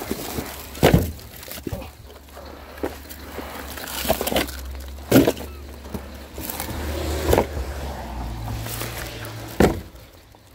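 A few sharp knocks and thumps, about four spaced a couple of seconds apart, over a low steady hum that stops with the last thump near the end.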